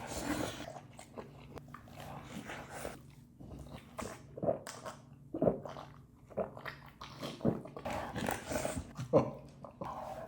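Close-miked chewing and mouth sounds of a person eating chicken: irregular short smacks, with a few louder ones spread through.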